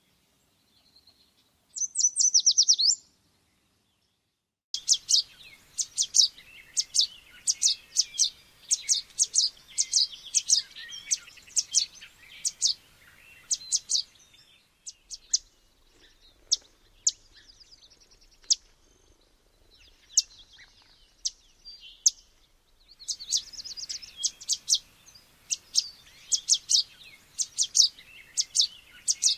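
Yellow warblers chirping: many thin, high chip notes in quick runs, with a short loud trill about two seconds in. There are abrupt silent gaps near the start.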